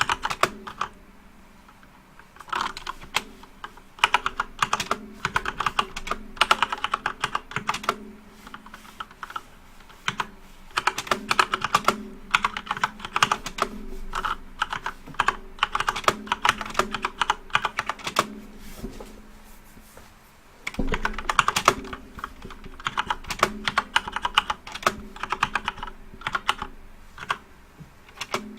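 Typing on a flat computer keyboard: fast runs of key clicks in bursts of a few seconds, broken by short pauses, over a faint steady hum.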